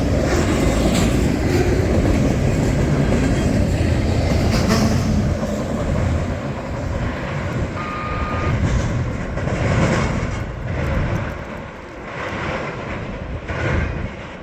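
A train's cars rolling past with a steady rail rumble and wheel noise, growing fainter and more uneven in the second half.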